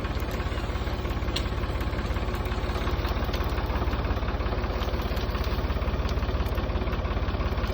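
Tractor engine running steadily with a fast, even low throb.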